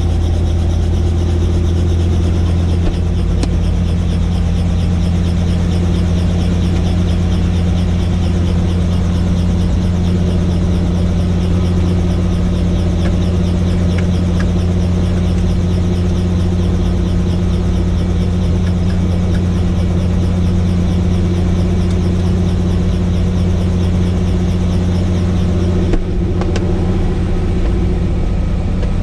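Helicopter in flight: the steady, loud drone of its engine and rotor, a low hum with a fast, even flutter over it.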